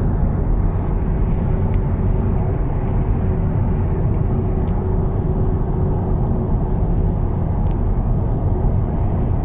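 Audi TT RS on the move: steady road and running noise with a low rumble, and a thin steady tone above it that fades out about two-thirds of the way through.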